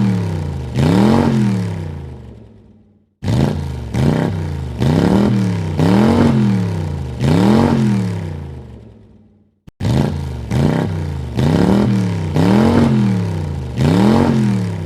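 Car engine revved in short blips, each one rising in pitch and falling back, several to a recording. Three separate recordings play one after another, each fading out before a sudden cut to the next.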